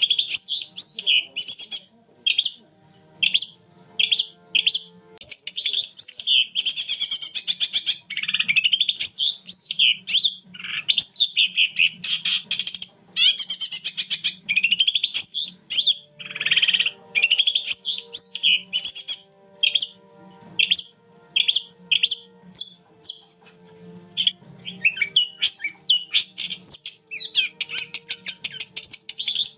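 Long-tailed shrike (cendet) singing continuously: a fast, varied stream of high chirps, trills and sweeping notes, broken only by brief pauses.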